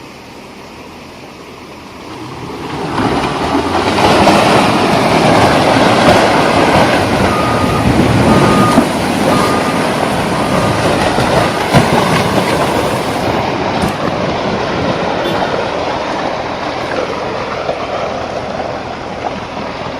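A heavy vehicle passing close with a loud rumbling noise that builds up about three seconds in and slowly fades away, with a short run of evenly spaced beeps in the middle.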